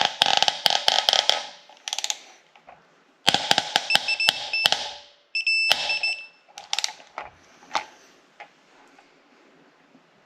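Ratchet wrench tightening a Subaru EJ25 cylinder-head bolt in bursts of rapid clicks, and from about four to six seconds in a high electronic beeping in short pulses, the alert of an electronic torque wrench reaching its set torque. A few scattered clicks follow near the end.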